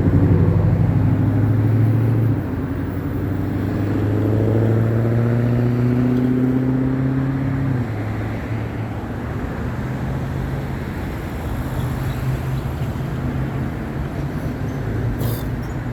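A road vehicle's engine running loud and close, its pitch rising steadily as it accelerates for about eight seconds, then dropping away suddenly. Lower traffic hum and road noise continue afterwards.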